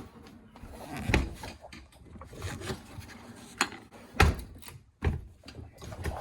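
A few separate knocks and clunks, about four, the loudest about four seconds in: the dishwasher's door and controls being handled while it is being started.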